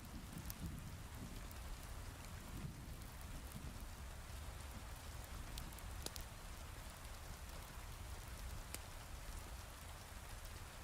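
Heavy rain falling steadily, with a low rumble underneath and a few sharp, isolated crackles from a wood fire in a fireplace.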